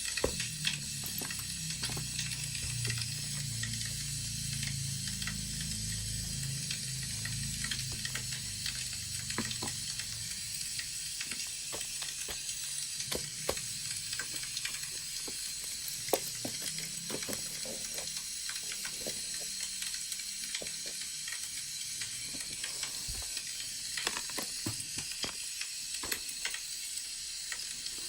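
Wood fire crackling: a steady hiss with scattered sharp pops and snaps, and a low rumble under it for the first several seconds.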